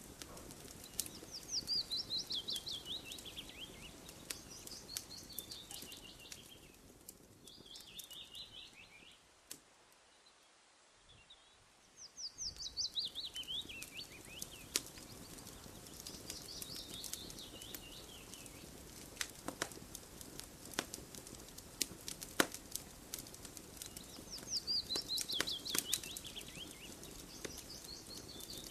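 A songbird repeatedly sings a rapid trill that falls in pitch, each phrase lasting about two seconds. Under it, a campfire pops and crackles with sharp irregular clicks. The sound drops out almost entirely for a couple of seconds just before the middle, then comes back.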